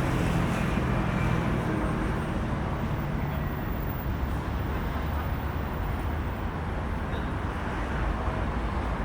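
Steady low rumbling noise with no distinct events, and a low hum in the first few seconds.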